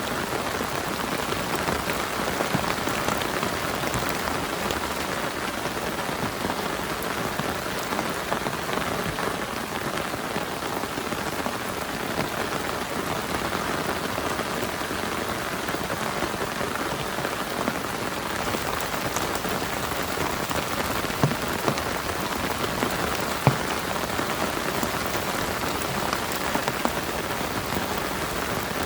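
Heavy rain falling steadily, a dense hiss with individual drops ticking close by and a couple of louder drop hits in the second half.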